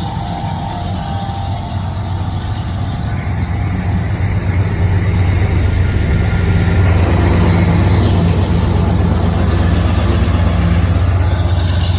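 Diesel locomotive engine running with a steady low drone, growing louder over the first few seconds as it draws near, then holding.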